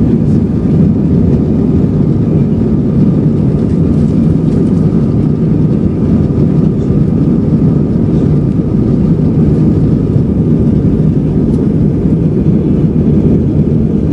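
Airbus A320 cabin noise heard from a window seat: a steady low rumble of the jet engines and airflow, with a faint high whine.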